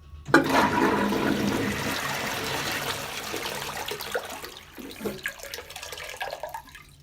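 An INAX (LIXIL) toilet flushing: a rush of water that starts suddenly, is loudest at first, then slowly fades away over about six seconds.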